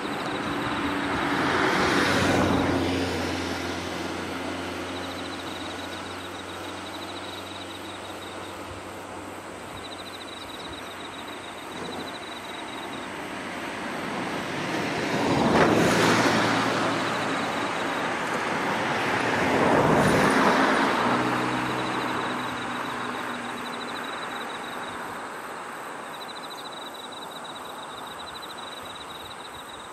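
Motor vehicles passing along a road three times, each swelling up and fading away: about two seconds in, near the middle, and again about four seconds later. A faint high steady trill, like insects, comes and goes between the passes.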